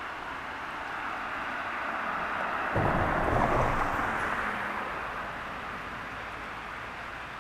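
Steady rush of river water, with a low rumble that swells up suddenly about three seconds in and fades over the next couple of seconds.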